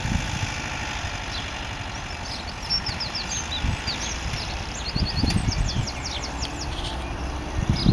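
A VW Bay camper's air-cooled flat-four engine idling with a steady low rumble, while a bird sings quick runs of short falling chirps in the middle.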